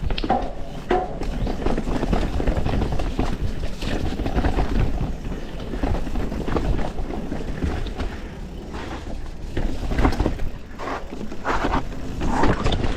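YT Industries Capra full-suspension mountain bike ridden fast down a rough, rocky trail. The tyres clatter and thud over rocks and roots, and the frame and drivetrain rattle with irregular knocks, over a constant rumble of wind on the helmet camera's microphone.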